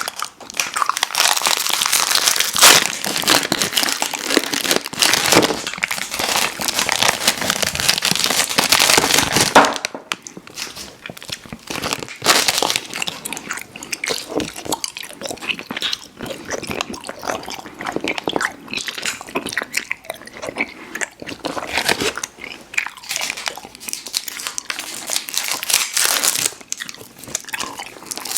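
A person biting and chewing chewy fruit candy with wet, crunchy mouth sounds. The chewing is dense and loud for about the first ten seconds, then turns sparser with the odd louder bite.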